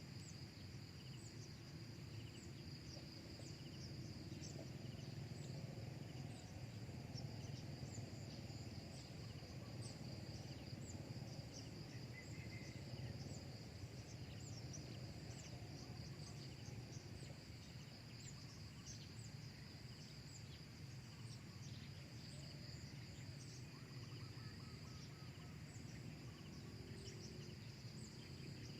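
Insects trilling steadily, with many short high chirps, over a low outdoor rumble.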